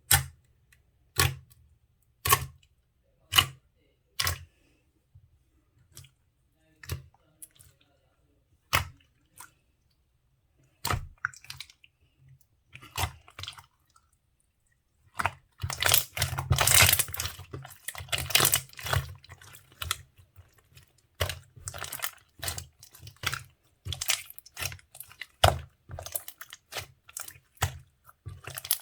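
Slime being pressed and squished by hand, giving sharp sticky pops and clicks, spaced about a second apart at first, then a dense run of crackling about halfway through.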